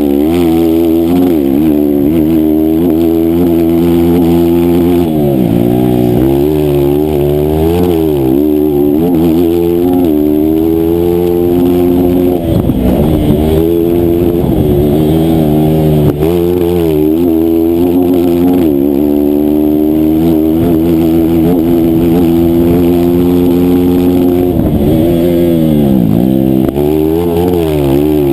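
160cc single-cylinder racing engine held at high revs, its pitch climbing and falling repeatedly as the racer accelerates and slows, with deep drops about four times.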